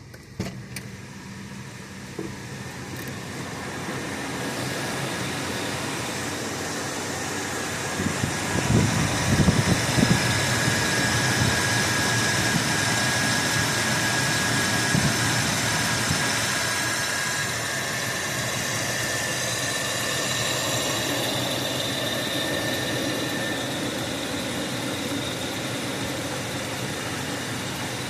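1983 Buick Park Avenue engine on a cold start after sitting about two days. There are a few clicks at first, then uneven low pulses about eight to ten seconds in, the loudest part. It then settles into a steady cold idle.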